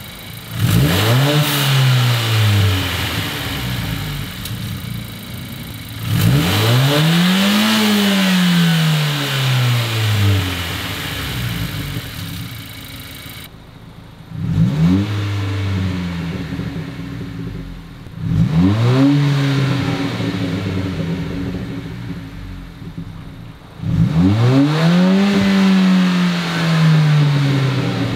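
2022 Honda Civic Si's 1.5-litre turbocharged four-cylinder idling and being revved in place, each rev a quick rise and fall in pitch. It is blipped twice with an aftermarket downpipe, then, after a cut, three times with the stock downpipe.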